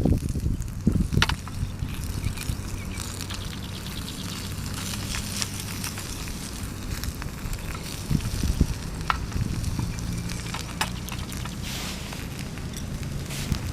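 Food sizzling in a pan over a small wood fire, with a steady hiss broken by many small crackles and ticks.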